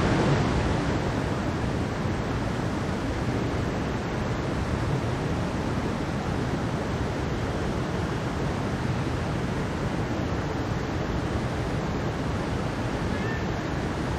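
Mountain stream water rushing over rocks with a steady, even roar and no breaks.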